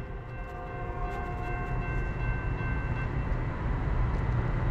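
Norfolk Southern freight train approaching at speed: the low rumble of the locomotives grows steadily louder, with a few faint steady high tones that fade out about three seconds in.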